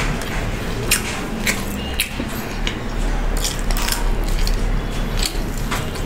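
Close-miked chewing of fried chicken: irregular crisp crunches and wet, squishy mouth sounds.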